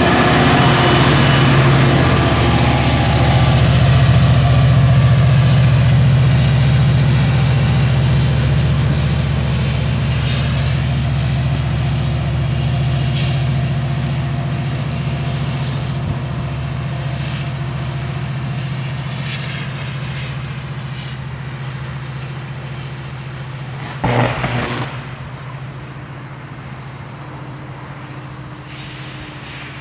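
Diesel locomotive of a commuter train pulling away, its engine's low steady drone fading as the train recedes down the track. A brief burst of noise about 24 seconds in.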